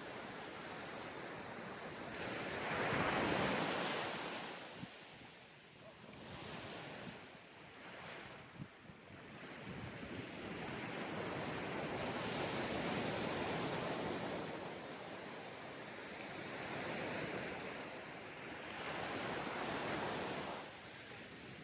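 Ocean waves breaking on a sandy beach and washing up the shore, the surf swelling and ebbing in several surges, the strongest about three seconds in. Some wind on the microphone.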